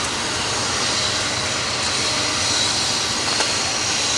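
Steady mechanical running noise, an even rushing sound at a constant level with a few faint clicks.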